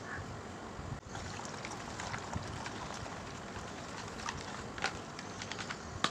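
Tools and small metal parts being handled: scattered light clicks and taps over a steady hiss, with a brief drop in level about a second in.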